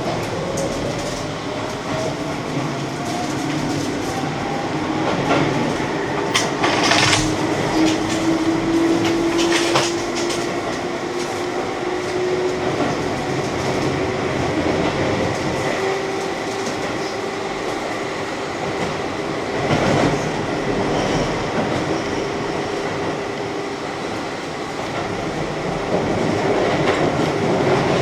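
Keihan electric train running from inside the front car, its traction motors whining in a tone that rises slowly in pitch as the train gathers speed. The wheels give a few sharp clacks over rail joints, around a quarter of the way in and again near the middle.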